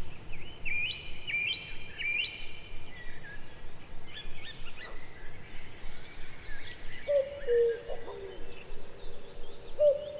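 Birds chirping and calling: quick high chirps and short trills throughout, joined about two-thirds of the way in by a lower, repeated whistled note that drops in pitch at its end.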